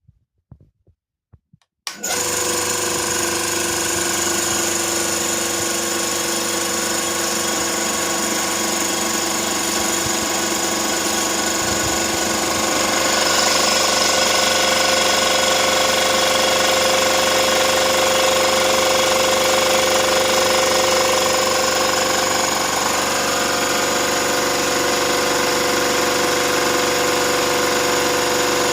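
Ekom air compressor starting up about two seconds in after a few faint clicks, then running steadily with a loud, even mechanical drone that grows a little louder about halfway through.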